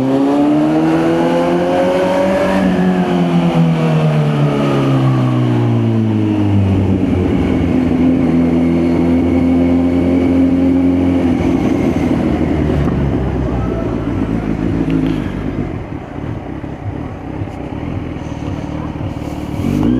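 Kawasaki Z900 inline-four engine pulling up in revs for about two seconds, then falling away as the bike slows. It holds a steady note for a few seconds, runs quieter and rougher for a while, and climbs in revs again at the very end.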